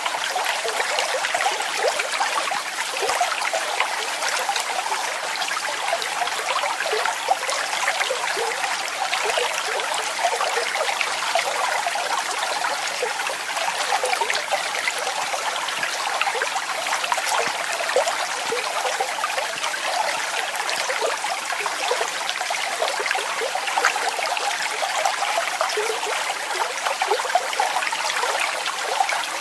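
Waterfall: falling water splashing steadily, a constant rush with many small splashes and little deep rumble.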